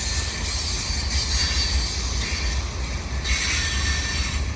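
Freight cars of a slow, heavy freight train rolling past: steel wheels on rail giving a steady low rumble with a faint, high wheel squeal over it.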